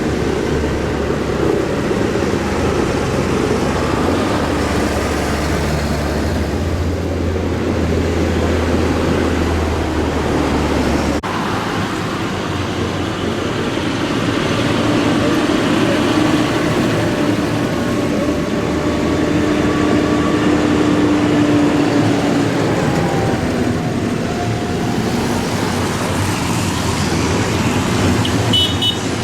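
Farm tractor engines running as tractors drive past one after another. The sound changes abruptly about eleven seconds in, and a steady engine note comes through near the middle.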